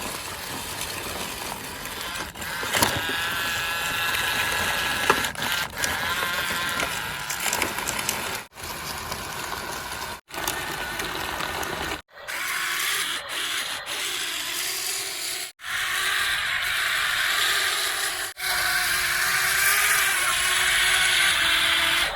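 Small electric motors of plastic RC toy vehicles whining, with plastic rubbing and scraping. The sound is broken into short stretches by several abrupt cuts.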